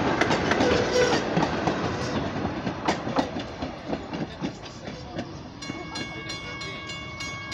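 Passenger coaches of a steam-hauled train rolling past, their wheels clicking over the rail joints and fading as the train moves away. About three-quarters of the way in, a grade-crossing bell comes through, ringing about two or three times a second.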